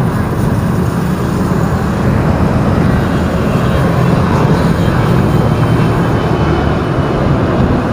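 A car driving through city traffic: steady engine and road noise.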